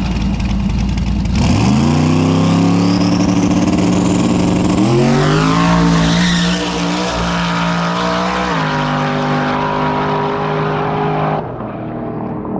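Turbocharged drag car launching and accelerating hard. The engine note climbs steeply about a second and a half in, climbs again about five seconds in, then steps down near the middle, with a high rising turbo whine over it early on.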